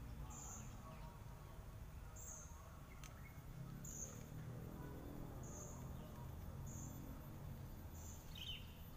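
A bird calling: a short high chirp repeated about every second and a half, with one lower falling note near the end, over a faint steady low rumble of background noise.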